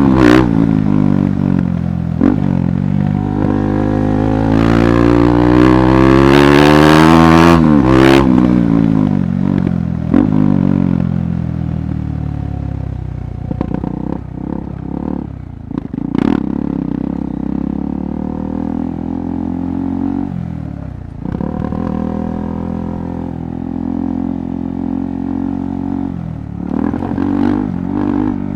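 KTM 390 Adventure Rally's single-cylinder engine under way off-road: revs climb and fall through the gears, building to a peak about seven seconds in and dropping sharply at the shift, then running at steadier, lower revs. Scattered clattering knocks come through now and then, loudest in the second half.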